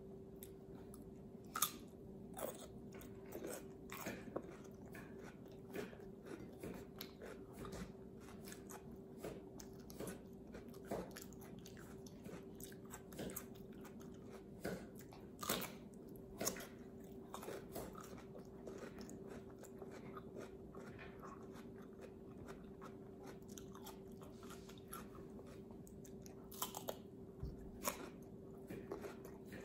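Close-up crunchy biting and chewing of raw cucumber spread with peanut butter: a long string of crisp crunches, scattered irregularly, over a faint steady hum.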